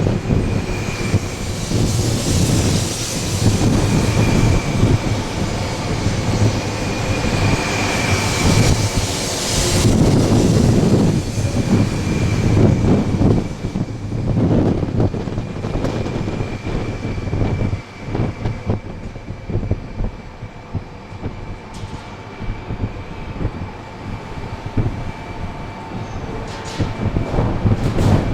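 A Shinkansen train running through the station. A steady high whine sounds over the rumble for the first ten seconds, and the noise eases off from about eighteen seconds in. Strong wind noise on the microphone mixes in throughout.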